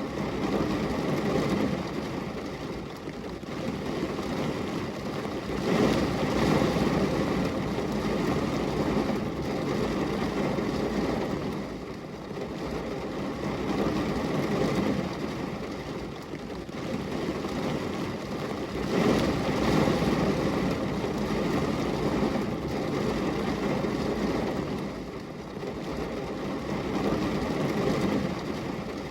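Rain, as a dense steady noise with a low rumble, swelling and easing several times.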